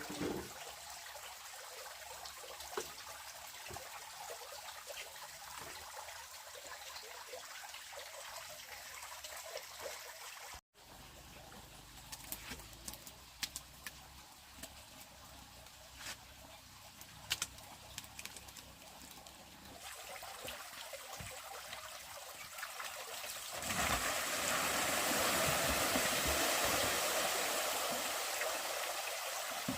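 Running water trickling and splashing steadily, with scattered small clicks and taps; the flow grows louder and fuller a few seconds before the end.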